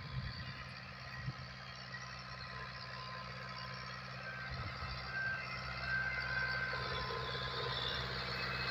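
Fiat 640 tractor's diesel engine running steadily under load, getting gradually louder over the second half.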